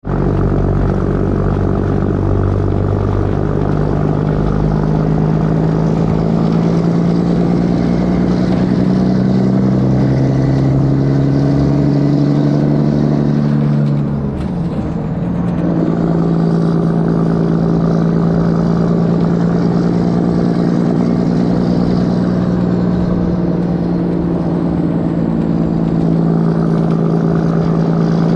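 Kenworth W900 truck's diesel engine running loud through straight pipes. Its pitch steps up a few times, dips briefly about halfway through as in a gear change, then holds steady.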